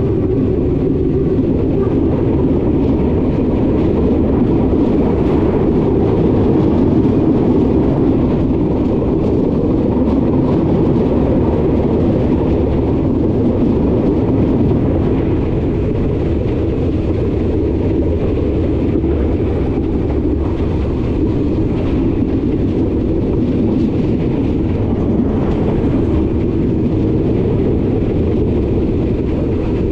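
Harz metre-gauge steam-hauled train running at a steady pace, a continuous rumble of wheels on rail with faint clicks. The tail of a whistle note dies away right at the start.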